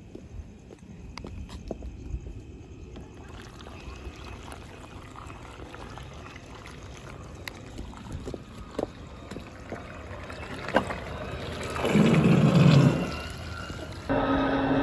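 Water trickling and sloshing around an Aiper Orca 1200 Pro robotic pool cleaner as it works along the pool wall. There is a louder rush about twelve seconds in, and a steady hum starts just before the end.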